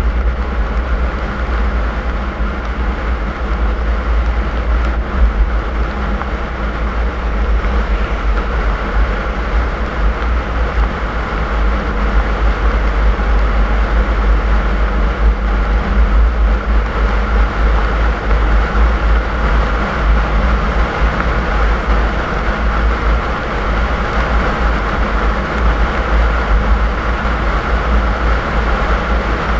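Car driving along a snowy road: steady engine and road noise with a heavy low rumble.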